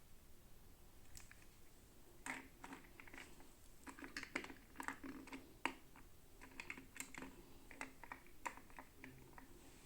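Quiet, irregular light clicks and taps of small plastic toy pieces and packaging being handled, coming in quick clusters from about two seconds in.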